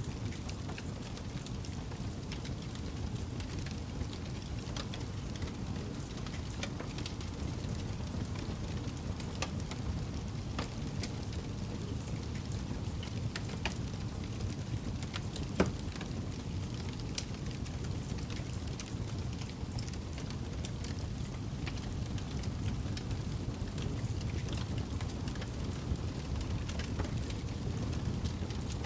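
Campfire burning: a steady low rumble of the flames with scattered crackles and pops, and one sharper, louder pop about halfway through.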